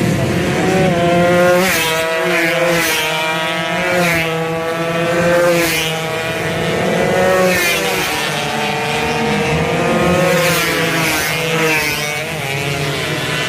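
Two-stroke racing motorcycles revving hard. The engine pitch climbs and drops again and again as the riders go through the gears, with several bikes overlapping.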